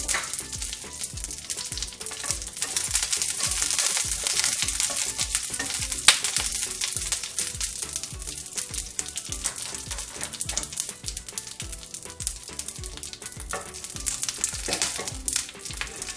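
Mustard seeds, dried red chillies and curry leaves frying in hot oil for a tadka: a steady sizzle full of the seeds' crackling pops, with one sharp pop about six seconds in. The sizzle is strongest a few seconds in and then eases.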